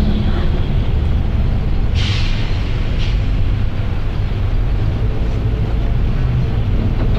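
Volvo B9TL double-decker bus heard from the upper deck, its nine-litre six-cylinder diesel droning steadily under way. A short burst of air hiss from the bus's air system comes about two seconds in, and a brief second one about a second later.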